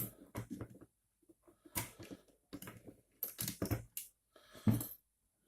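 Metal threaded rods and nuts clicking and knocking against acrylic frame plates as they are handled and pushed through the holes, in irregular taps with short pauses. The loudest knock comes near the end.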